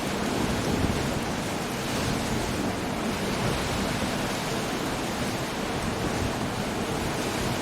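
Storm surf and wind on a rocky coast: a steady, even roar of breaking waves and gusting wind, with no distinct single crash.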